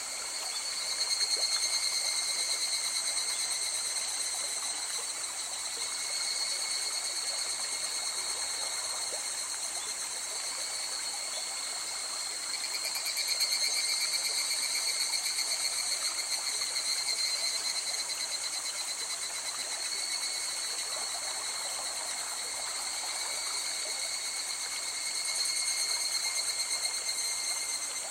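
A river flowing steadily, with a continuous high chorus of insects over it that swells and fades every five or six seconds.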